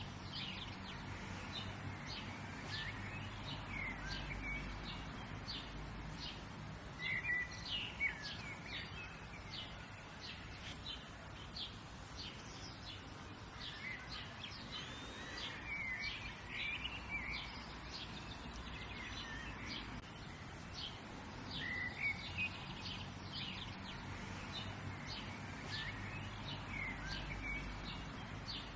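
Several wild birds chirping and singing in short, high phrases that come in bunches, over a steady low background rumble.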